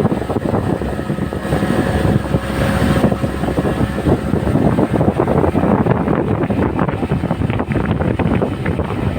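Speedboat motor running steadily at speed, with wind buffeting the microphone.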